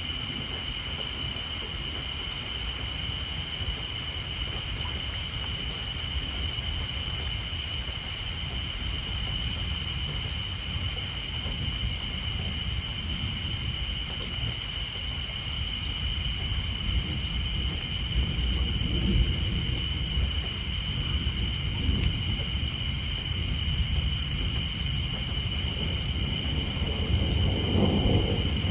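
Rain pattering on a tin roof under a steady high chorus of tree frogs, with distant thunder rumbling low; the thunder builds through the second half and is loudest near the end.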